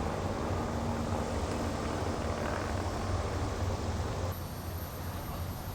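Steady low mechanical rumble with background noise, like a running vehicle or shop machinery; the sound changes abruptly about four seconds in.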